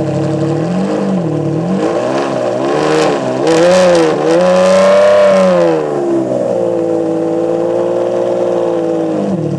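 Sports car engine being revved: several quick blips of the throttle, then held at higher revs for about two seconds, the loudest part, before dropping back to a steady lower-pitched run.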